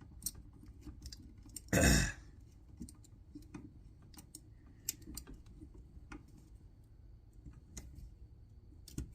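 Small irregular clicks and ticks of a screw being driven in with a hand driver, metal tool on metal parts. One brief louder sound comes about two seconds in.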